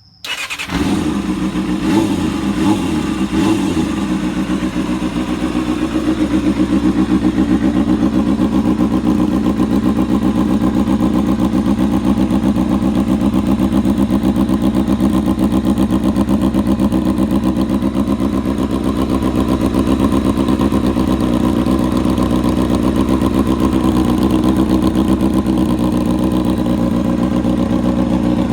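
Kawasaki Balius 250 inline-four motorcycle engine starting, blipped a few times, then settling into a steady idle, heard through a custom exhaust of stock header pipes, a hand-bent steel tube after the collector and a cheap conical silencer.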